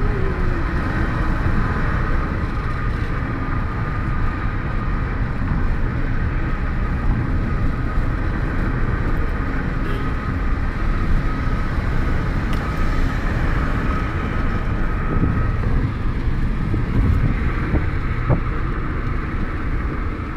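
Car driving at a steady speed: continuous road and engine noise with no break, and a faint steady tone above it.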